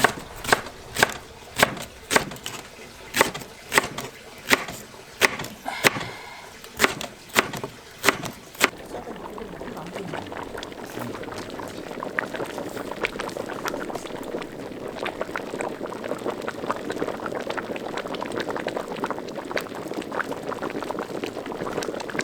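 About a dozen sharp knife chops, roughly two a second, for the first nine seconds, then a pot of pork-bone and siraegi stew bubbling at a hard boil.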